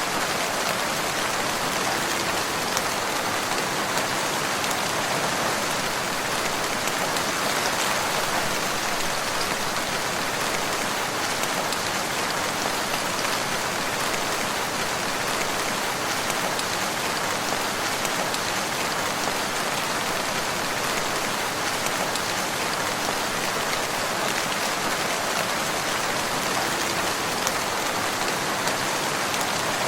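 Steady rain falling on a surface, a dense even patter with no thunder.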